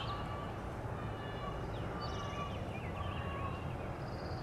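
Faint bird calls in the background, short repeated notes with a few thin higher chirps, over a steady outdoor hiss.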